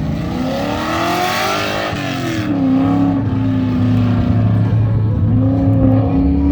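Race truck engine accelerating hard on an autocross run: the pitch climbs for a couple of seconds, holds steady, dips briefly and rises again near the end, with a rush of noise over the first rise.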